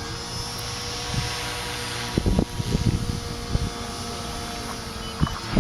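Align T-Rex 450 Pro electric RC helicopter running on its Scorpion HKII 2221-8 brushless motor: a steady motor and rotor whine with the pitch shifting up and down. From about two seconds in there are repeated low thumps.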